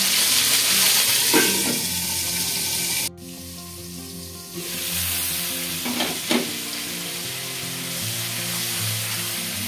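Rohu fish head sizzling in hot mustard oil in an aluminium kadai. The sizzle drops suddenly low about three seconds in and comes back a second and a half later, and a couple of short knocks of the spatula against the pan come about six seconds in.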